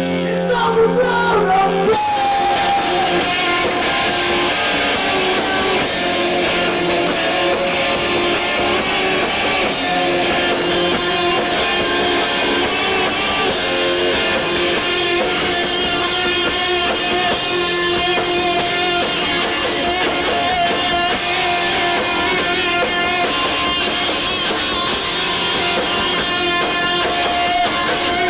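A loud live rock band with distorted electric guitars, bass and drums. A held guitar chord rings for the first two seconds, then the full band comes in with a fast, driving beat.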